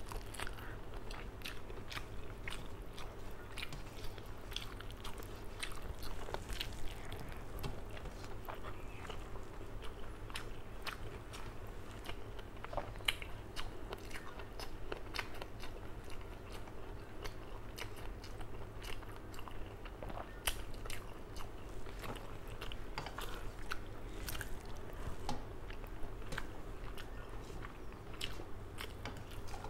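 Close-miked chewing of a mouthful of rice and curry eaten by hand, wet mouth sounds with many small clicks throughout, while fingers mix food on a steel plate. A steady low hum lies underneath.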